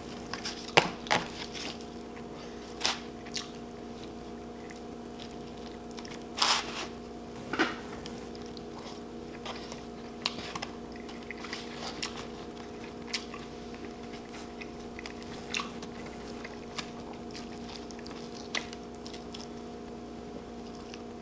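Close-miked eating: a mouth biting and chewing food, with scattered short crunches and wet clicks, a few louder near the start and about a third of the way in. A steady low hum runs underneath.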